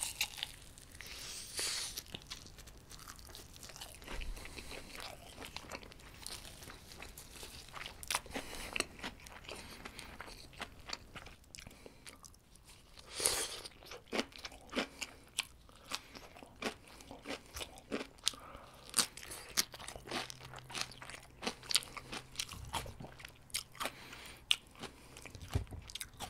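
Close-miked crunching and chewing of crispy fried breaded chicken: many short crisp crackles as the coating breaks between the teeth, with a louder crunchy burst about halfway through.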